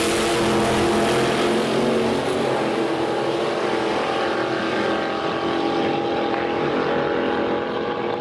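Drag-racing car engine running hard at high revs, its pitch climbing sharply right at the start and then holding steady.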